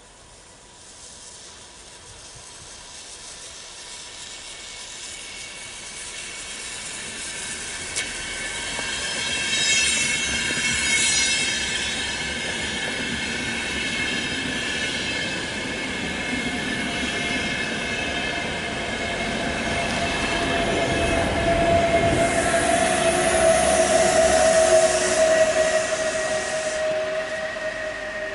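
A train approaching and running past on the track, growing steadily louder over about twenty seconds. High ringing tones from the wheels or drive come in about a third of the way in, and a lower whine that falls slightly in pitch is heard in the last several seconds.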